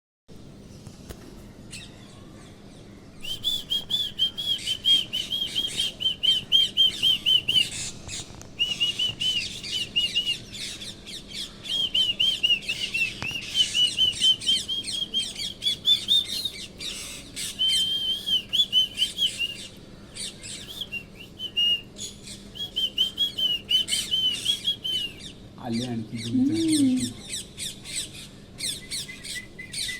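Parrots calling: rapid runs of short, high, repeated calls in bouts separated by brief pauses.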